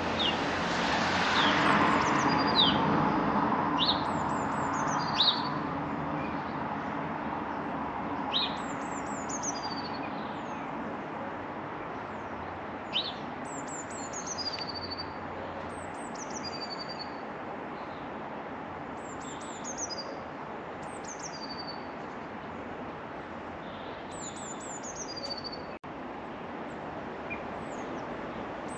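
Small garden songbirds calling repeatedly: short, high notes that slide quickly downward, one every second or two, over a steady background rumble that is louder in the first few seconds.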